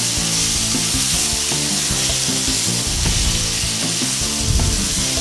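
Aubergine and potato pieces frying in spiced oil in a pan, with a steady sizzle. Background music plays underneath.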